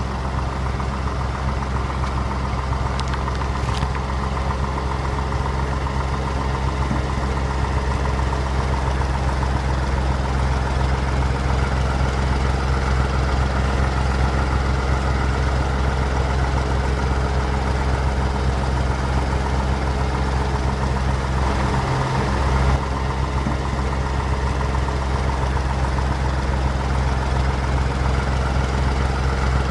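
A steady, low engine drone like an idling motor, with a brief waver about twenty-two seconds in.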